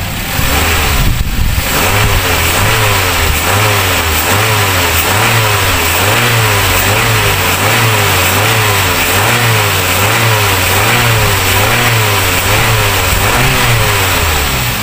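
A Toyota car's petrol engine, freshly fitted with new spark plugs, being revved by hand at the throttle under the open hood. Its revs rise and fall over and over in quick blips, more than once a second.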